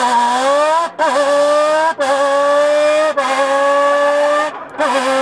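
Engine-noise imitation made with a can: a buzzing pitched tone that runs in segments of about a second, each rising slightly in pitch and breaking off, like a car shifting up through the gears. There is a brief dip near the end before the tone picks up again.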